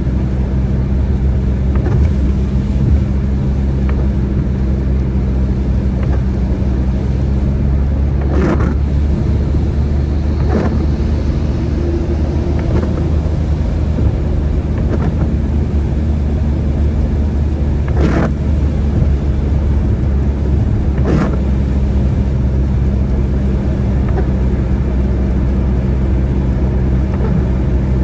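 Steady low drone of a car driving in the rain, engine and tyre noise holding an even hum, broken by four brief sharp sounds scattered through it.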